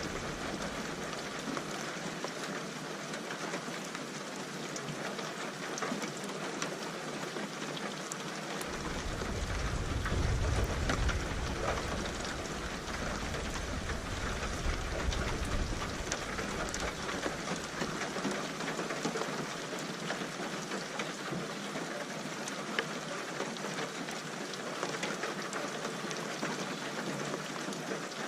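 Steady rain falling, with a long low roll of thunder coming in about nine seconds in, loudest soon after, then fading away over several seconds while the rain carries on.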